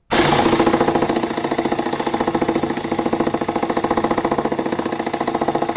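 Impact wrench hammering in rapid, even blows as it drives a tight-fitting harmonic balancer bolt into the crankshaft, starting suddenly. The bolt binds in threads that the owner thinks may have been slightly damaged.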